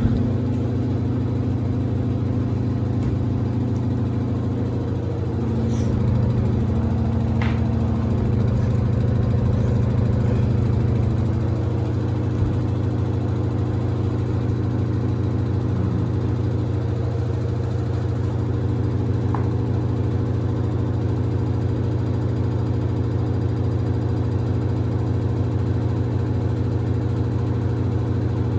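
Samsung WD70T4047CE washer-dryer running with a steady low motor hum, and a couple of faint clicks about six and seven seconds in.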